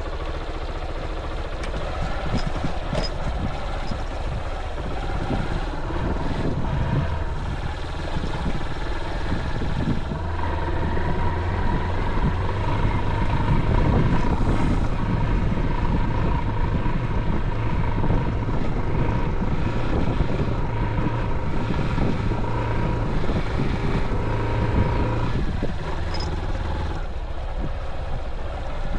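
Honda XR190L single-cylinder motorcycle engine running as the bike is ridden off, with wind noise on the microphone. The engine holds a steady pitch from about ten seconds in and drops lower a few seconds before the end.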